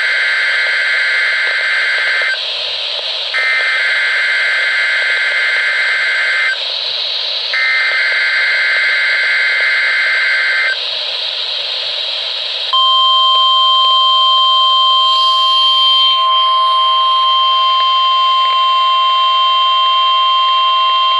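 NOAA Weather Radio alarm test: three bursts of SAME digital header data, each about three seconds long with short gaps between them, followed about two seconds later by the steady 1050 Hz warning alarm tone held for about nine seconds, all over radio hiss.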